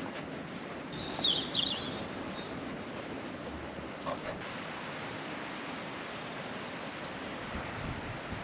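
A bird chirping a few times about a second in, over a steady outdoor hiss.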